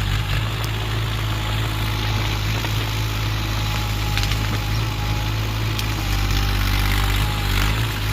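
Excavator's diesel engine running steadily, with a few sharp cracks over it.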